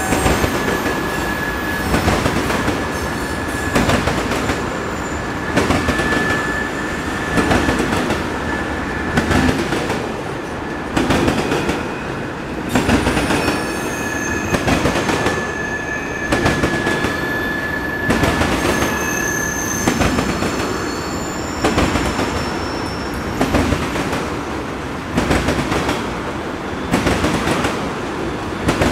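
Freight train of ethanol tank cars rolling past, its wheels clacking over rail joints in clusters about every two seconds over a steady rumble, with a thin, high wheel squeal that comes and goes.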